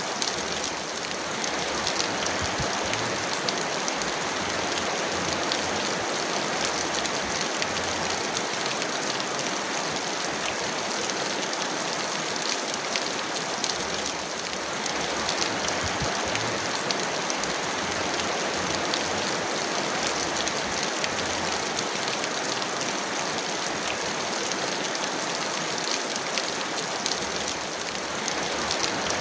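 Heavy rain falling steadily: a dense, even hiss of rain with individual drops ticking through it.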